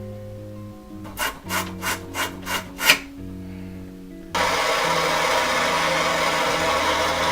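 Six quick rasping strokes, about three a second, like hand work on metal pipe. About four seconds in, a loud, steady hiss cuts in suddenly. Background music plays under both.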